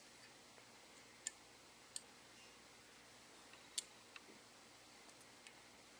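Near silence broken by a few short, sharp clicks, three of them clearer than the rest, from a die-cast model airliner's retractable landing gear being pried down and handled.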